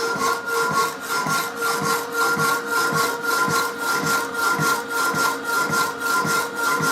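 Rapidor power hacksaw cutting through metal stock: its blade saws back and forth in an even rhythm of about one and a half strokes a second, over the steady hum of the machine's drive.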